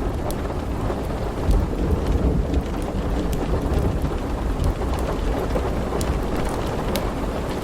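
Thunderstorm ambience: steady rain over a continuous low thunder rumble, with scattered sharp crackles on top.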